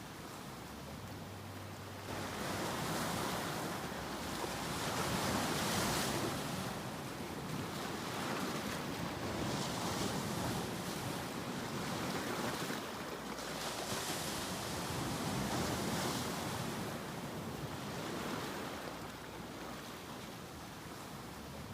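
Ocean surf: waves breaking and washing in, the rush of water swelling and easing in slow surges every four to five seconds.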